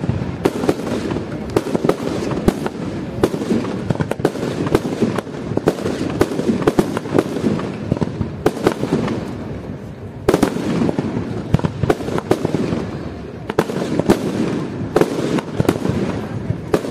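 Aerial fireworks display: a dense, unbroken run of bangs and crackling from shells bursting overhead, over a steady rumble. A few reports are louder than the rest, one about ten seconds in.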